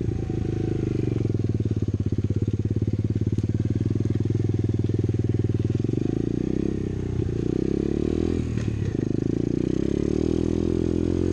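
Apollo pit bike's small single-cylinder four-stroke engine running under way, holding a steady pitch for several seconds, then the revs rising and falling in the second half.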